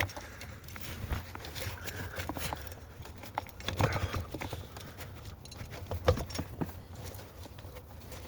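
Irregular clinks and knocks of metal tools and engine parts being handled during engine work, with a couple of sharper knocks about four and six seconds in.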